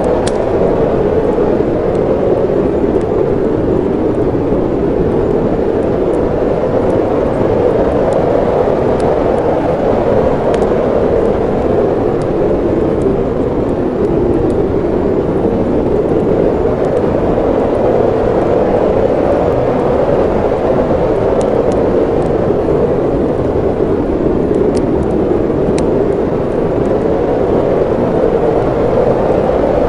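Steady blizzard wind noise with a few faint, sparse crackles from a fireplace.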